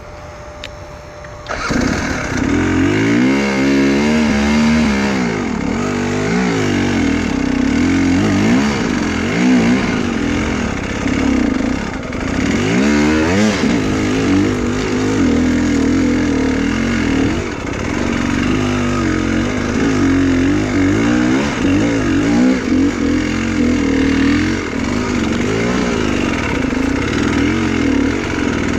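Enduro motorcycle engine starting about a second and a half in, then revving up and down over and over.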